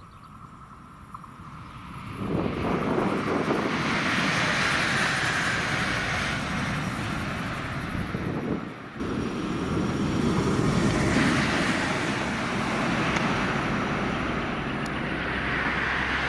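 A train passing on a test track: a loud rushing rumble builds up about two seconds in and holds steady, with one brief drop a little under halfway through.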